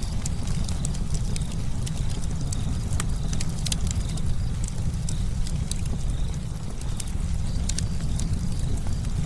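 Campfire crackling: frequent sharp, irregular pops and snaps of burning wood over a steady low rumble.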